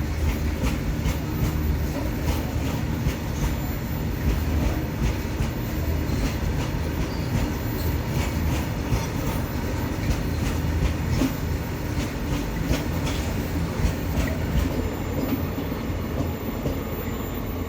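Freight train rolling past: a steady low rumble of the wagons, with irregular clicks of the wheels over the rail joints.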